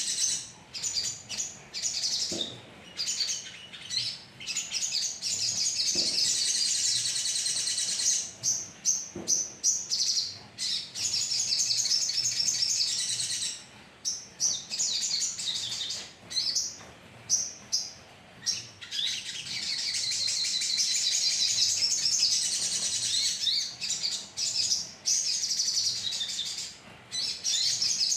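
A flock of sogon birds chirping and calling together in dense, overlapping high-pitched bursts, broken by short pauses.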